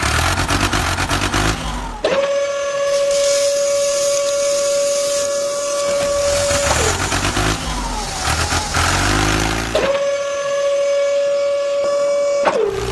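Vehicle engine noise with two long steady horn-like blasts, the first about four and a half seconds long and the second about two and a half. Each blast sags in pitch as it cuts off.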